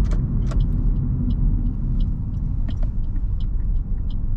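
Low, steady rumble of a car, with light ticks repeating about once or twice a second.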